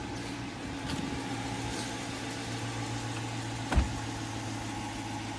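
Dodge Challenger R/T's 5.7-litre HEMI V8 idling steadily, not revved. A single sharp knock about four seconds in.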